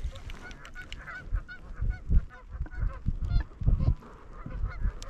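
A flock of geese honking, many short calls overlapping and repeating, over dull low thumps and rumbles.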